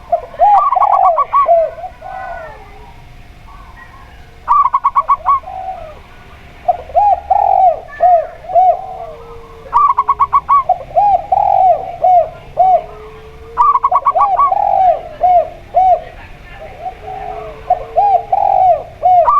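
Zebra dove and spotted dove cooing. Phrases of rounded coo notes are cut by quick runs of short, higher-pitched notes several times, each phrase a few seconds apart.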